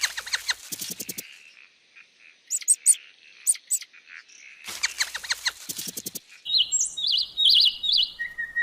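Small songbirds chirping: quick runs of sharp chirps, scattered high notes, then in the second half a short warbled phrase repeated several times.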